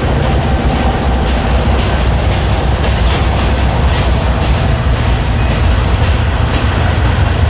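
A freight train's cars rolling past close by: a steady low rumble with irregular clicks of the wheels going over the rail joints.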